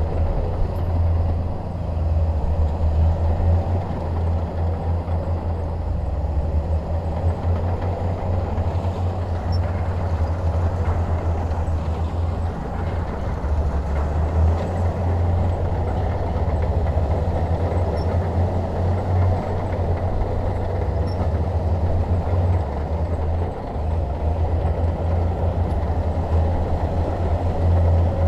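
Bulldozer's diesel engine running steadily, a continuous low drone.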